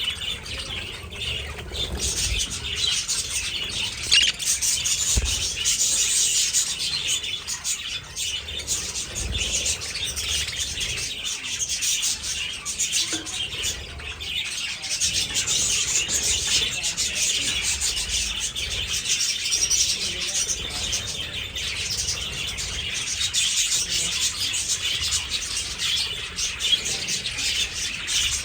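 A flock of budgerigars chattering and chirping, a dense overlapping twitter with no break.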